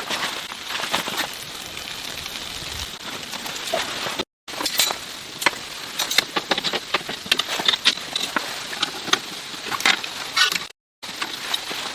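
Irregular clicks, clinks and light knocks of small objects being handled, over a steady hiss, broken twice by a brief total dropout.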